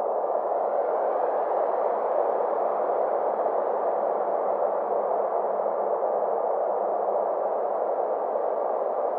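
Synthesized space-ambience drone: a steady, soft, mid-pitched rushing wash, with faint whistling tones gliding slowly up and down above it.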